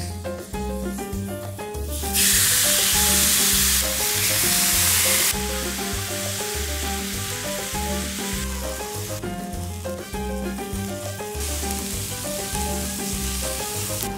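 Skirt steak sizzling as it sears in a hot pan, loudest for about three seconds from about two seconds in, then a steady sizzle. Near the end, sliced bell peppers and onions sizzle in the pan. Latin-style music with a steady bass beat plays throughout.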